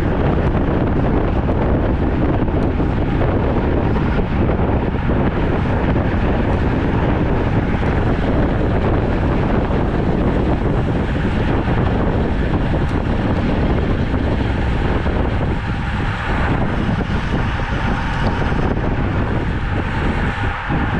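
Steady, loud wind rushing over the microphone of a camera riding along on a road bike at speed.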